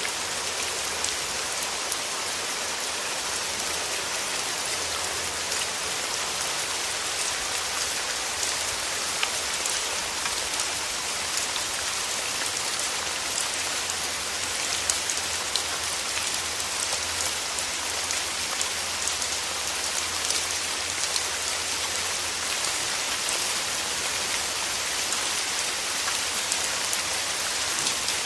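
Steady rain falling on a surface, a dense even hiss with many fine drop ticks throughout.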